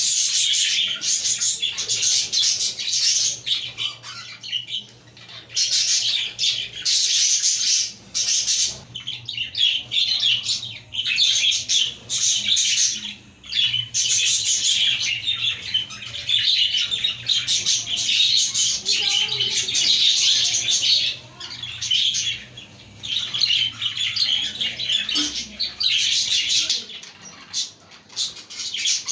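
A flock of budgerigars chattering, warbling and chirping together in dense bursts with short pauses, over a faint steady low hum.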